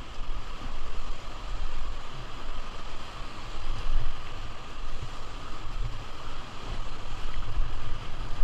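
River water rushing and splashing, with a low uneven rumble of wind buffeting the microphone.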